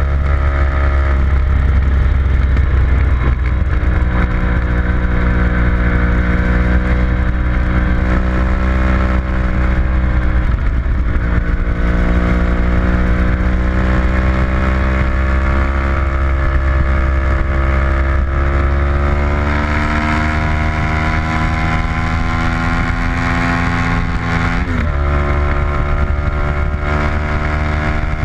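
Onboard sound of a track-day vehicle's engine pulling hard at speed, its note climbing steadily and dropping abruptly a few times at shifts, under a heavy low wind rumble on the microphone.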